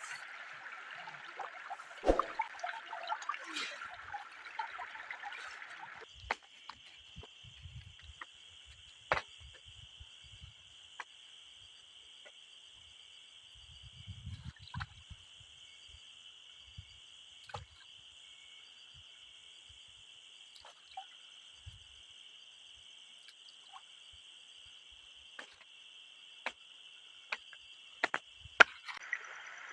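Forest river water trickling for the first few seconds, then a steady high-pitched night chorus from calling insects or frogs, with water trickling again near the end. Scattered light clicks and knocks throughout, with a few soft low thumps around the middle.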